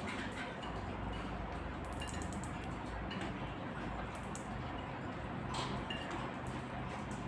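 Birds outdoors: a few faint short chirps and scattered light clicks over a steady background hiss.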